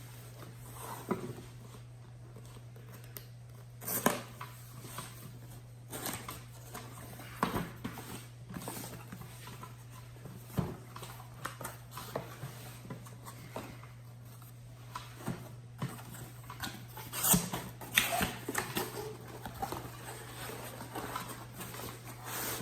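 Scattered handling noises of a box being unpacked: irregular clicks, knocks and rustling, with a busier cluster about three-quarters of the way through, over a steady low hum.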